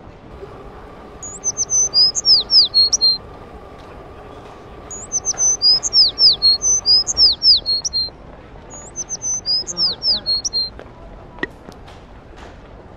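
A songbird singing three phrases of quick, high whistled notes that slide downward, with short pauses between the phrases. A couple of short clicks follow near the end.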